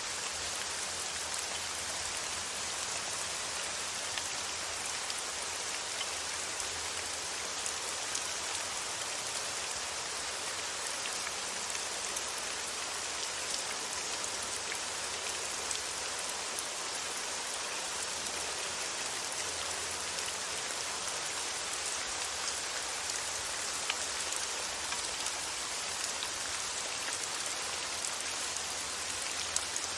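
Steady rain falling on a surface, an even patter with scattered individual drop ticks.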